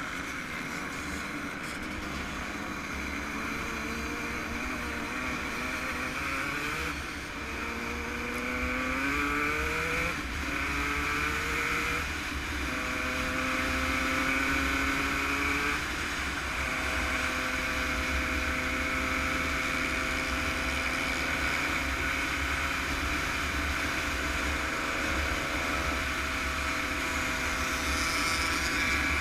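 Yamaha YZ125 two-stroke motocross engine under load, its pitch climbing in steps as it runs up through the gears, then holding a steady high pitch. Heavy wind rumble on the microphone underneath.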